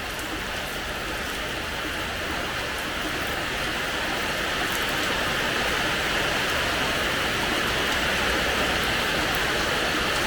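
Steady rain falling on a hard terrace floor: an even hiss with faint scattered drop ticks, getting a little louder over the first half.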